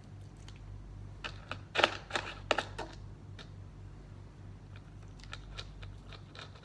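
A cat eating: irregular clicks and smacks of chewing, most of them in a quick cluster a little over a second in, then scattered, over a steady low hum.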